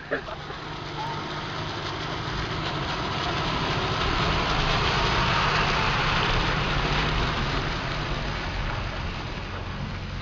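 City bus passing through a muddy, waterlogged street: diesel engine running with the tyres hissing through the wet mud, growing louder as it passes close about halfway through and fading as it drives away.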